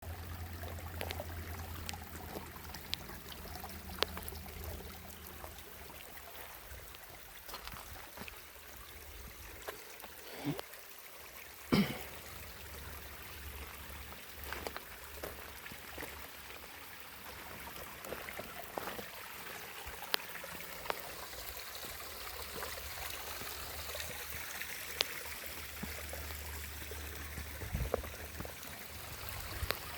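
Small stream of running water trickling steadily, with scattered short sharp ticks and a louder knock about twelve seconds in.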